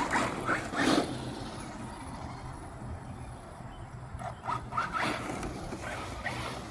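Arrma Mojave 4S RC truck running, with short bursts of electric motor whine and tyre noise near the start, again about four to five seconds in, and near the end.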